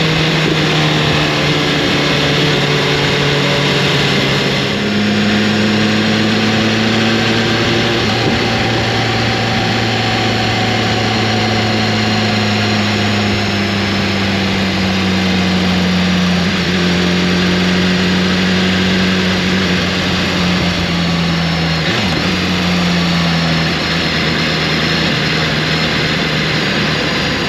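Motorcycle engine running under way, over a steady rushing noise. Its pitch jumps up about five seconds in, then sinks slowly, and shifts again near the end.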